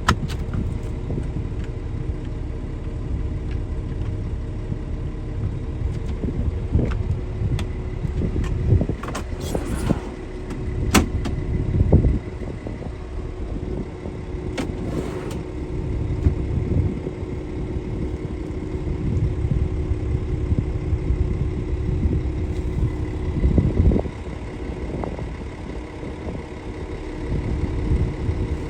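Scania S500 truck's diesel engine idling with a steady low rumble and hum, with a few sharp knocks or clunks partway through.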